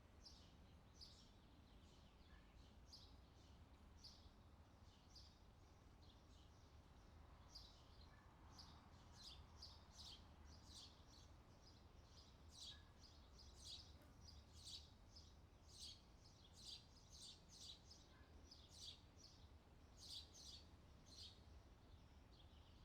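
Faint outdoor summer ambience of birds chirping: short high chirps repeating over and over, coming thicker from about a third of the way in, over a faint low hum.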